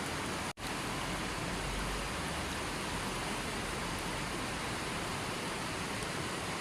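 Steady, even rushing noise of a nature-sounds track, with no bird calls or separate events, cutting out for an instant about half a second in.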